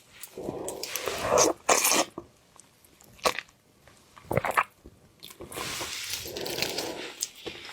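Close-up eating sounds of seafood: biting and chewing with crunchy, wet rustling in two stretches and a few sharp clicks in between.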